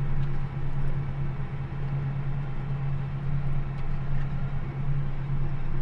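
John Deere 8400R tractor's six-cylinder diesel engine running at a steady speed while the tractor drives along, a constant low drone.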